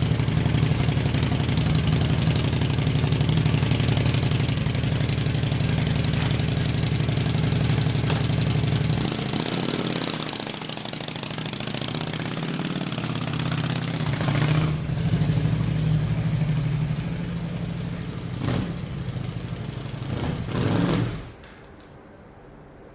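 Honda Shadow VT600's V-twin engine running with its exhaust refitted, steady at first, then blipped a few times before it is switched off about 21 seconds in.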